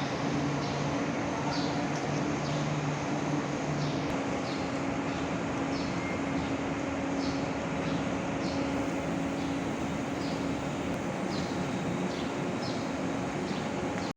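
Escort AE4.3312-3A engine of a Hydra 14-ton crane running at a steady speed, a constant hum, with faint short high chirps recurring every half second or so.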